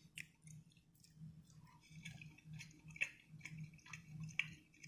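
A person chewing a bite of plain cod fillet close to the microphone: soft, moist mouth clicks and smacks, about two to three a second, faint.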